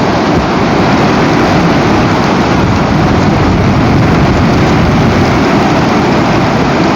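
Steady wind rumbling and buffeting on an outdoor nest-camera microphone.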